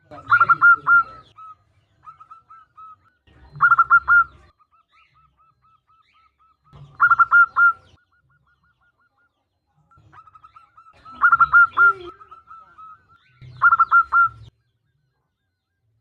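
Zebra dove (perkutut) cooing in five loud bouts of quick, rolling notes, with softer runs of repeated notes between them. The call is given as a female calling to a male.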